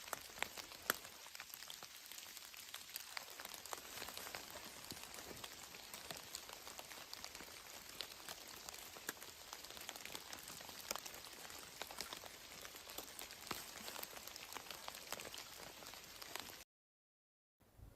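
Light rain pattering on a surface: a faint, steady hiss dotted with many small drop ticks, breaking off abruptly near the end.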